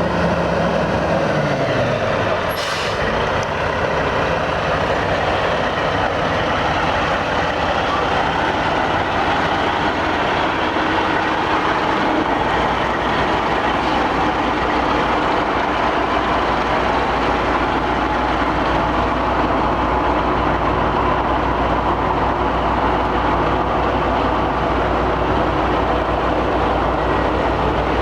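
1979 Ford L9000 tri-axle grain truck running, its engine note dropping over the first couple of seconds, with a short hiss of air from the air brakes about three seconds in. The truck then runs on steadily, with a deeper low drone from about twelve seconds in.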